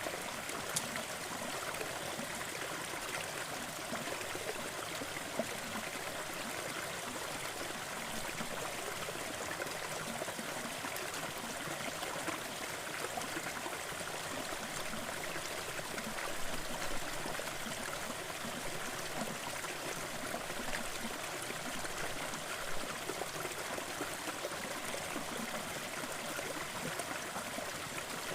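Small waterfall with water running and splashing steadily, an even rushing with faint drips and ticks.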